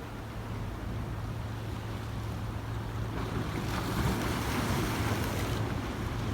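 Ocean waves washing over rocks: a steady wash, with a wave surging in and hissing louder about halfway through before easing off. Wind buffets the microphone throughout.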